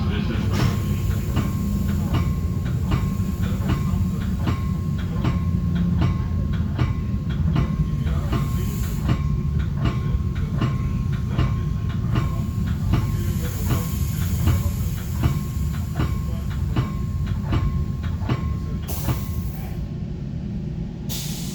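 Metra commuter cab car running on the rails, heard from inside the cab: a steady low rumble with a regular clickety-clack of wheels passing over rail joints and a faint steady whine.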